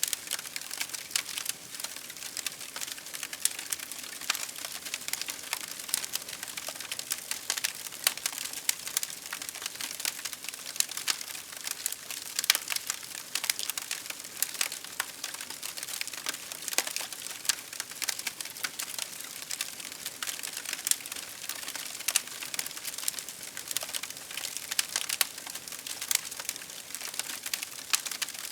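Wood fire crackling steadily, with dense irregular pops and snaps over a soft hiss of burning.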